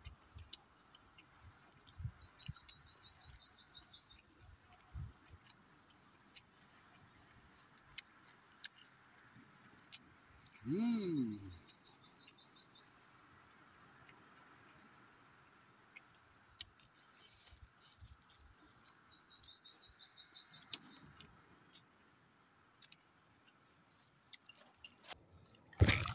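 Small birds chirping, with a rapid high trill repeated three times, each about two seconds long. A short lower sliding sound about ten seconds in is the loudest moment, and a sharp knock comes near the end.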